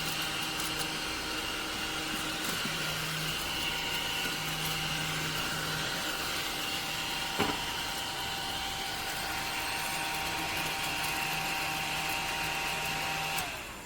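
Small battery-powered desktop vacuum cleaner running with a steady high motor whine, with a single sharp click about halfway through. The motor sound stops shortly before the end.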